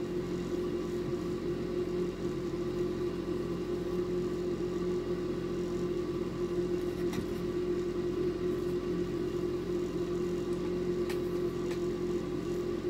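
Electric fan running steadily on top of a homemade ice-bucket cooler, a continuous even hum with one strong pitch, blowing air down into the bucket and out through the cup vents. A few faint ticks sound over it in the second half.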